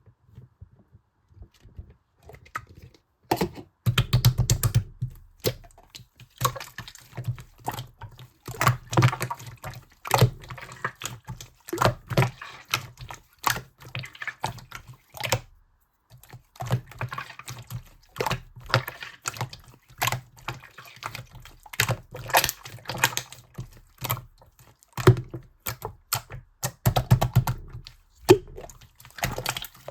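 Sky-blue slime being squished and pressed by hand, making dense wet clicks and pops that start a few seconds in, with a brief pause about halfway through.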